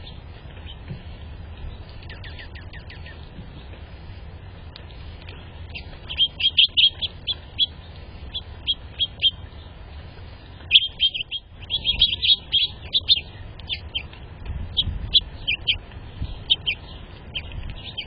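Small birds chirping, with quick runs of short, high chirps that come in two busy bursts and scattered single notes. A low, steady rumble runs underneath.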